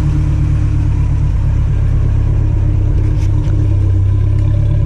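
Exhaust of a Toyota 22RE four-cylinder engine breathing through an aftermarket header and MagnaFlow muffler, running steadily at a slightly high idle with a deep rumble.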